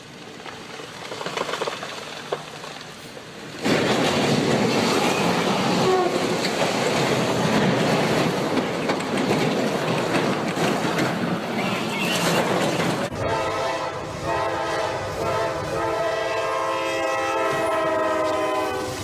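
Train sounds from a compilation clip: a loud, steady noise of a moving train starts suddenly a few seconds in. About thirteen seconds in, a train horn sounds a held chord of several notes to the end.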